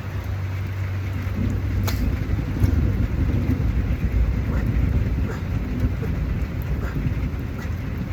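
Steady rain falling, with a low rumble underneath and occasional sharp taps of drops, one clearer about two seconds in.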